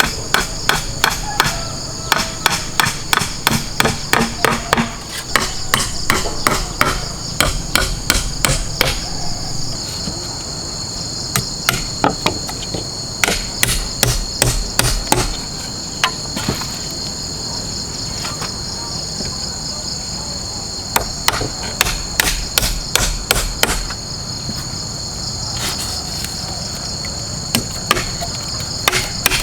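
Hammer blows in quick runs of about three strikes a second, stopping for a few seconds at a time, over a steady high drone of insects.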